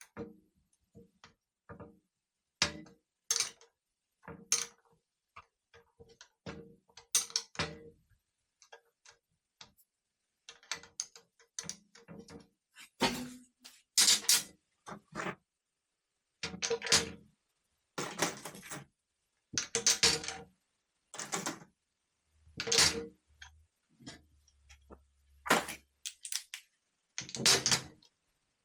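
Metal hand tools and small starter-solenoid parts clicking and clanking on a workbench during reassembly, in irregular knocks with short pauses between them.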